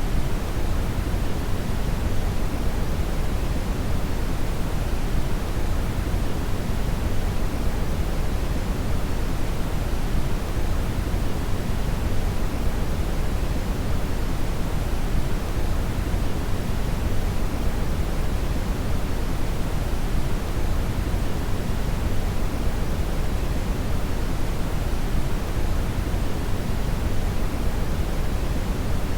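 Synthetic brown (red) noise: a steady, unchanging hiss weighted heavily to the bass, with the highs much softer.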